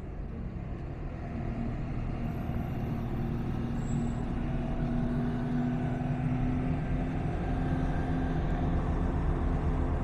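Passenger train running: a steady low rumble with a humming tone, growing louder over the first few seconds and then holding steady.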